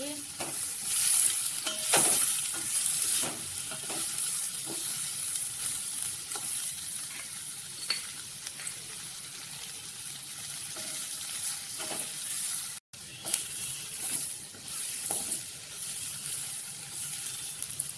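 Onions, tomatoes, garlic and cashews sizzling in hot oil in a steel kadai, with a wooden spatula scraping and knocking against the pan again and again as they are stirred.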